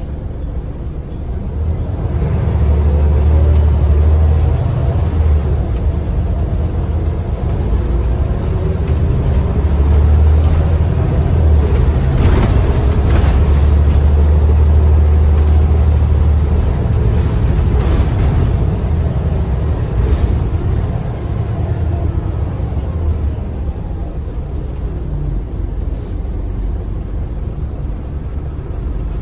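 Scania L94UB bus's diesel engine pulling, a deep drone that builds about two seconds in, is strongest through the middle and eases off in the last third. A few knocks or rattles come midway.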